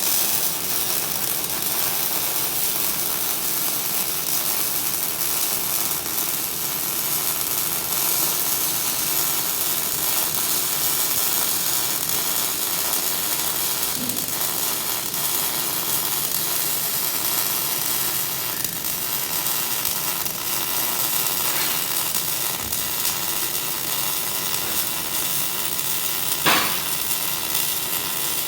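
MIG welding arc crackling steadily and continuously as a bead is laid, with one sharper pop near the end.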